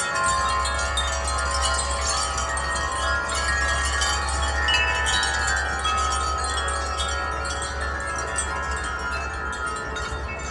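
Wind chimes ringing continuously in the wind, many overlapping metallic tones, over a low steady rumble.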